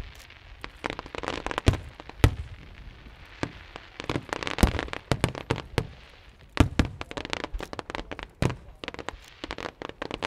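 Fireworks display: an irregular run of sharp bangs from bursting shells, with a stretch of dense crackling a few seconds in.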